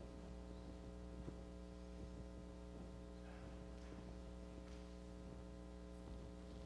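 Steady electrical mains hum from the sound system, with a few faint small knocks.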